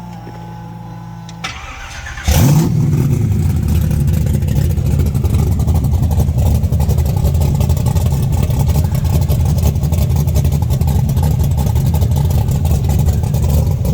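A steady hum, then a 468 cubic-inch big-block Chevy V8 on Hooker headers is cranked and fires about two seconds in, catching with a quick rev before settling into a steady, loud idle.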